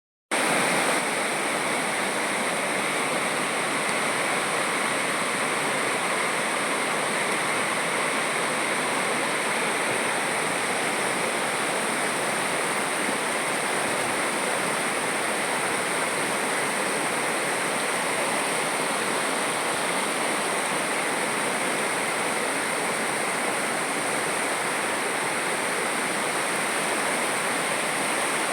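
River water rushing without let-up, with a high, even hiss over it.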